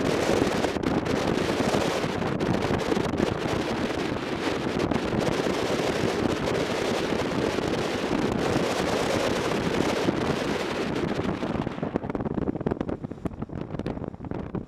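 Wind rushing over the microphone of a camera on a moving motorcycle, a steady noise with the machine's riding noise under it. It eases off for a moment near the end, then picks up again.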